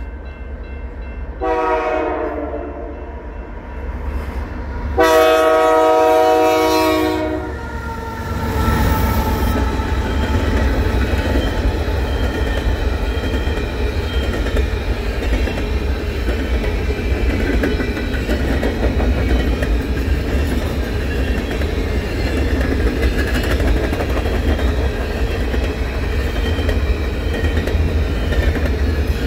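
Freight locomotive air horn sounding two long blasts, the second louder. A Canadian Pacific grain train's covered hopper cars then roll past with a steady rumble of wheels on rail.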